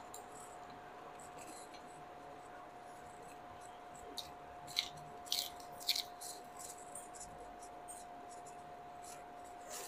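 Quiet chewing with a few short, crisp crunches as raw lettuce leaves are bitten, clustered about four to six seconds in, over a steady faint hum.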